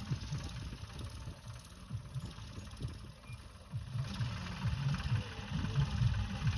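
Ford 3600 Turbo tractor's diesel engine running with an uneven low rumble, getting louder about four seconds in.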